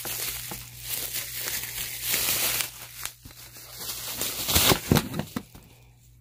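Plastic packaging crinkling and rustling in irregular bursts with sharp clicks and knocks, loudest about two seconds in and again near five seconds, then dying away.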